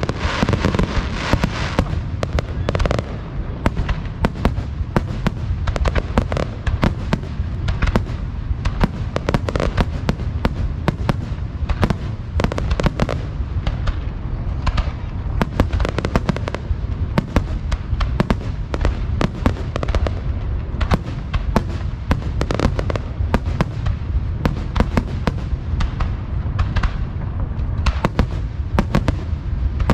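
Aerial fireworks bursting in a rapid, continuous barrage, many bangs a second over a constant deep rumble, heard from close to the launch site. Some crackling in the first couple of seconds.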